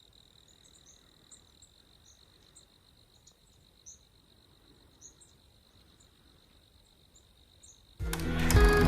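Faint outdoor insect chorus: a steady high-pitched trill with scattered short, higher chirps. Background music starts suddenly near the end and is much louder.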